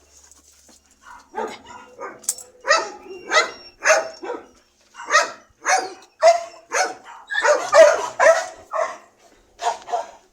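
A dog barking, a quick series of short barks about two a second, starting about a second in.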